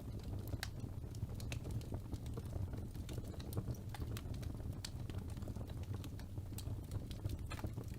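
Wood fire burning in a fireplace: a steady low rumble of the flames with irregular sharp crackles and pops from the burning logs, several a second at times.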